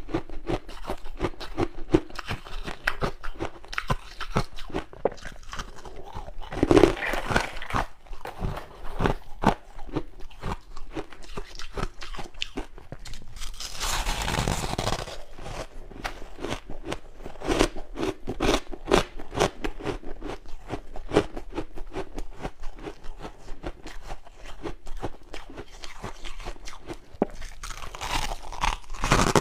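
Close-up crunching and chewing of freezer frost, a dense run of irregular crisp crunches, with a louder rushing noise for about two seconds midway.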